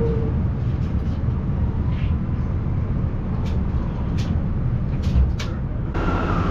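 Steady low rumble of a vehicle in motion, with a few sharp clicks in the middle; the sound changes abruptly near the end, as at an edit.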